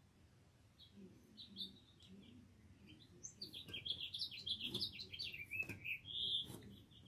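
Small songbirds chirping and singing in the trees overhead. A few scattered chirps become a busy run of quick twittering notes about three seconds in, ending with a short held whistle near the end.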